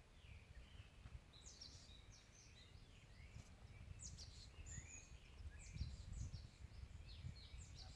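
Faint birdsong: small birds chirping and calling over a low rumble of wind.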